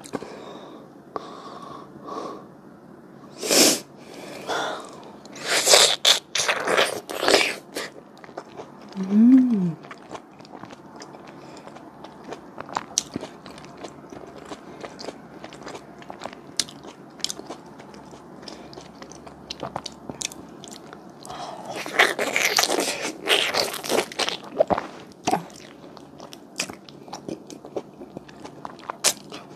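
Close-up chewing of a hallabong fruit mochi: sticky, wet mouth sounds with frequent small clicks and smacks, and two louder spells of biting and chewing, a few seconds in and again a little past the middle. A short hum about nine seconds in.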